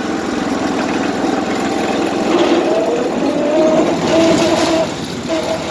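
Tractor engine running as the machine is driven in fourth gear, its tone strengthening and rising slightly about two and a half seconds in, with a short dip near the end.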